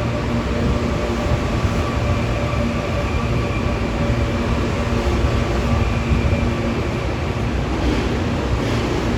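Train running with a steady, heavy low rumble and faint steady whining tones above it.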